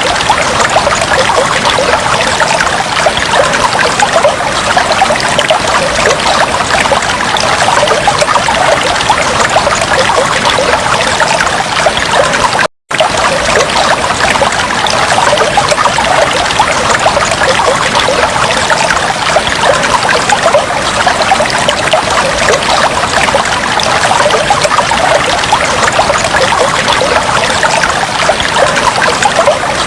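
Fish tank water trickling steadily, a dense fine splashing and bubbling-like patter. It cuts out for a split second about thirteen seconds in, then carries on unchanged.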